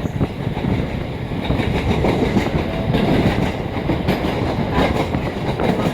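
KiHa 40 diesel railcar running along the line, heard from inside the carriage: a steady rumble with wheels clicking over the rail joints.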